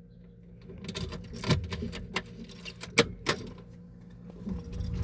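Small metal items jingling, with a few sharp clicks and knocks, over a faint steady machine hum.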